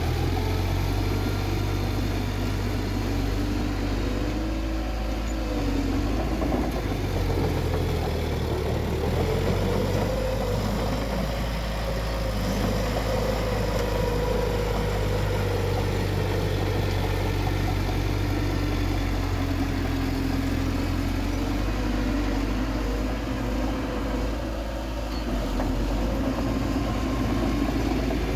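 Bulldozer's diesel engine running steadily under load, a deep continuous rumble whose pitch slowly rises and falls as it works.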